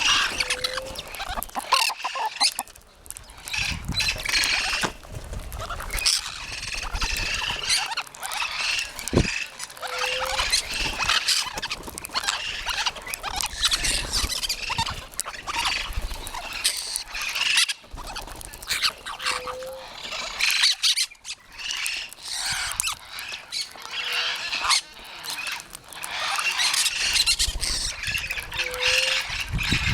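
Many parrots squawking and screeching at once while they feed, a continuous tangle of harsh calls with occasional short whistled notes.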